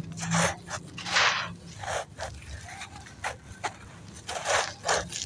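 Dry blue sand clumps crunching and crumbling in a clay pot: a quick, irregular series of crisp crunches, the loudest about a second in and again near the end.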